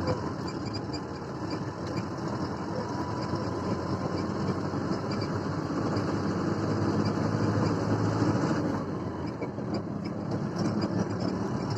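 Truck engine running steadily, a low drone.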